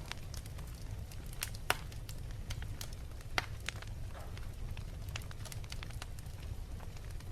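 Wood fire crackling in a fireplace: irregular sharp pops and snaps over a steady low rumble of the flames, with two louder pops at about a second and a half and three and a half seconds in.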